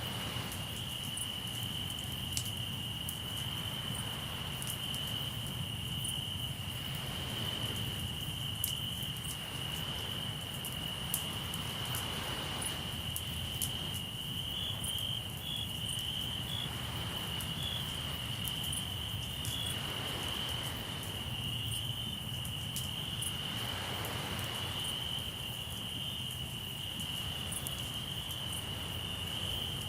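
Crickets in a continuous, steady high-pitched trill, with a campfire crackling in small scattered pops. Sea waves wash in softly every few seconds over a steady low rumble.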